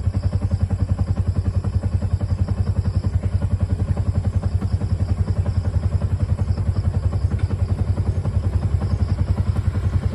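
A motorcycle engine running at a low, steady idle: an even, rapid putter of about a dozen beats a second that stays level throughout.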